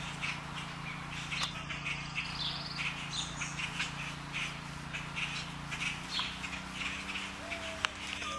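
Birds chirping in short, repeated high notes, over a steady low hum that shifts slightly in pitch about six seconds in.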